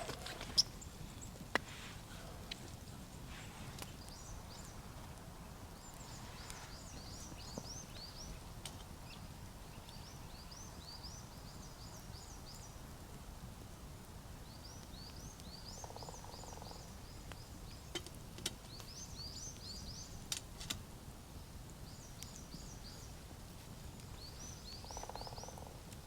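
A small bird singing faintly over a steady outdoor hiss: groups of quick, high chirping notes every few seconds, with a few sharp clicks in between.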